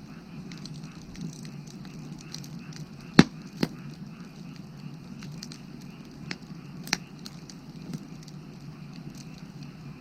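Firewood burning, crackling steadily, with several sharp pops; the loudest comes about three seconds in and another follows soon after. Frogs call steadily behind it.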